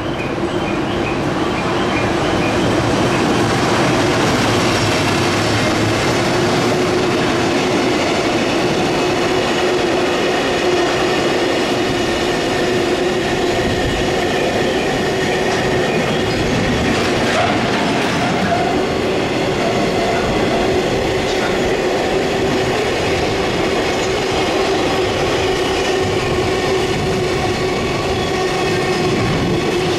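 Container freight train of flat wagons rolling past behind an electric locomotive: a steady rumble of steel wheels on rail with a steady high tone over it, growing louder over the first few seconds and then holding.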